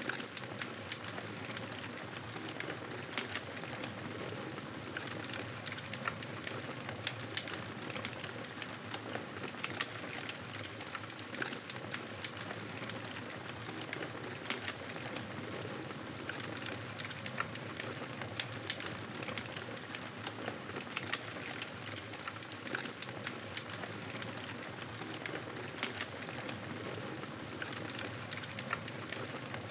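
Campfire crackling: a steady hiss with frequent sharp, irregular pops and snaps of burning wood.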